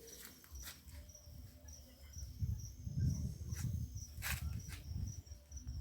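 Cricket chirping in short, high, evenly repeated notes, about two or three a second, over low rumble and a few soft knocks from walking with the phone.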